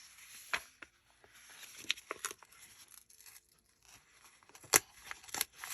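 Paper being handled and peeled away, with soft rustling and a few sharp clicks and taps, the loudest about three-quarters of the way through.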